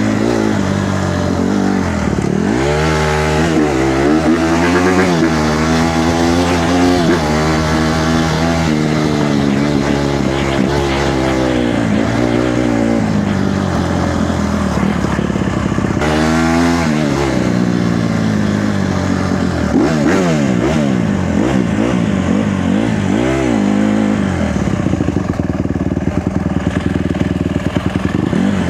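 Honda CRF150R dirt bike's single-cylinder four-stroke engine under way, revving up and down as it is ridden, its pitch repeatedly climbing and dropping with the throttle.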